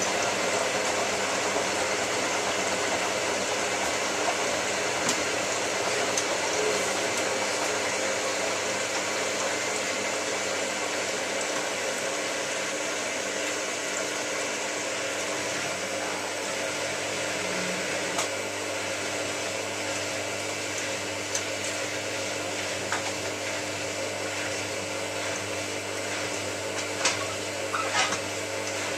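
Hotpoint 9534A washing machine spinning its drum at speed: a steady motor whine with a held hum, and a few short clicks near the end.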